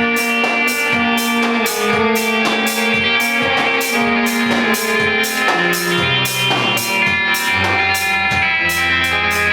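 Rock band playing live: electric guitar over a drum kit, with a steady cymbal beat of about three to four strokes a second under held guitar notes.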